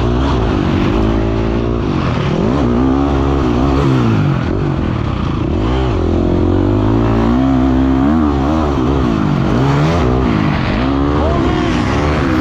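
Motocross dirt bike engine revving up and down over and over, the pitch rising and falling every second or two as the throttle is worked.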